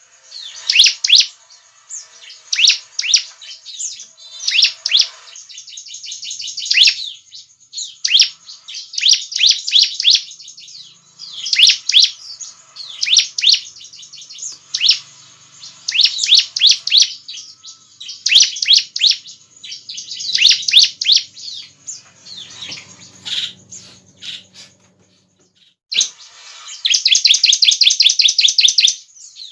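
Bar-winged prinia (ciblek) singing loud, repeated bursts of rapid high chirps, breaking into one long, fast trill near the end.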